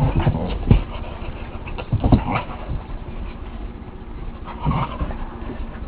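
Two dogs play-fighting, with short bursts of dog noise three times: at the start, about two seconds in, and near five seconds.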